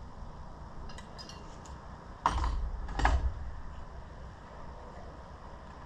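Metal parts and tools being handled: a few light metallic clicks, then two louder metal clanks less than a second apart with a brief ring.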